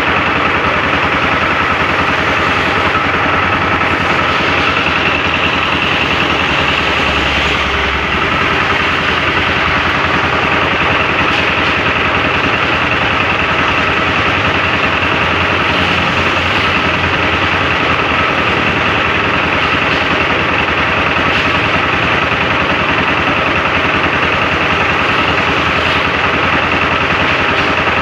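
Steady heavy rain falling on a flooded road, with an engine running steadily underneath.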